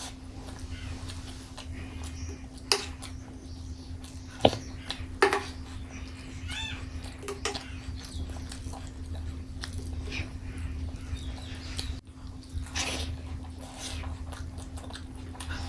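Close-miked eating sounds: chewing and wet mouth clicks, with a few sharp louder clicks or crunches between about the third and fifth second and a short squeaky sound about six and a half seconds in, over a steady low hum.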